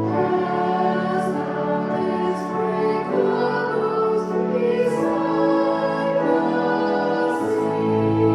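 Slow sung church music: voices holding long notes over a sustained instrumental accompaniment, with the s-sounds of the words coming through every second or two.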